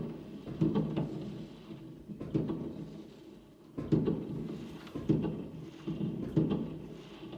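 Fireworks salute going off: a run of muffled bangs at irregular intervals, about one or two a second, with a trailing rumble after each.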